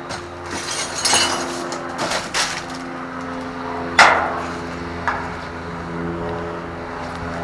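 Trash being dumped into a dumpster: a run of crashing, rustling bursts, then one loud bang about four seconds in, over a steady engine hum.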